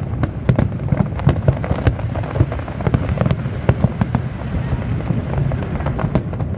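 Aerial fireworks going off in a dense barrage: many sharp bangs and crackles, several a second, over a continuous low rumble.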